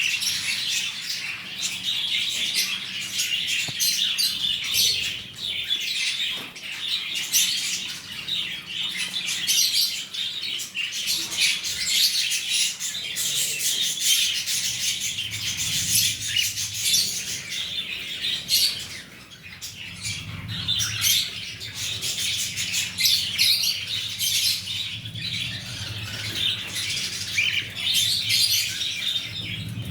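Cockatiel chirping and squawking over and over in quick, busy runs of short calls.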